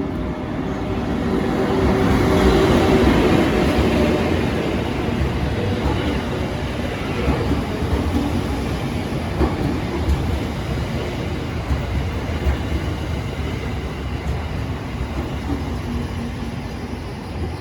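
EF81 electric locomotive hauling a rake of E231-series commuter cars past at speed. It is loudest about two to three seconds in, with a steady hum under the rumble, then the cars keep rolling by with wheels clacking over rail joints every second or so.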